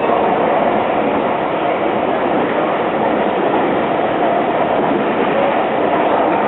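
Miami Metrorail train running with a steady, loud noise of wheels on rail.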